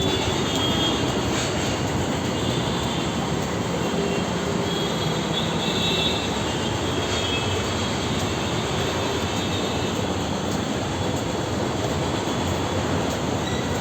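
Busy Indian street traffic: a steady, dense wash of engine and tyre noise, with brief high-pitched tones coming and going on top.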